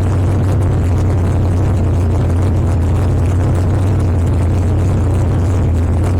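Drag race car's engine idling steadily, a deep even drone with no revving, heard from inside the car.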